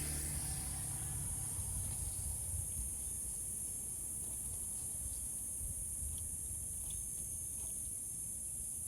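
Steady high chorus of crickets, with a low rumble underneath and a few faint ticks.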